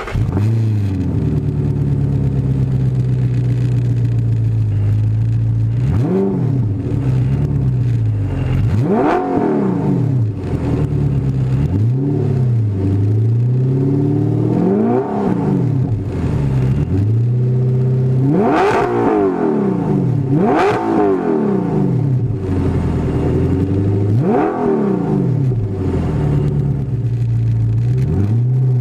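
Audi R8's 4.2-litre V8 through a Fast Intentions dual exhaust, heard close to the tailpipes. It runs steadily at low revs for the first few seconds, then the revs rise and drop sharply again and again.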